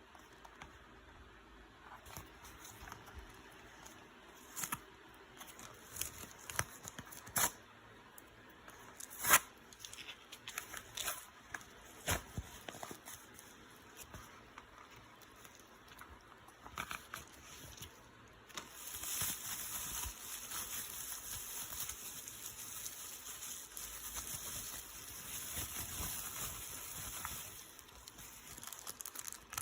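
Small handling sounds: scattered clicks, light knocks and crinkling, then a steady hiss that lasts about nine seconds before the clicking resumes.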